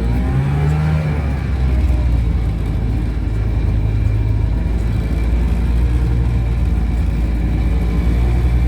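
Small engine of a 1970 Cony kei truck running under load as it drives, its pitch climbing in the first second and again near the end as it revs.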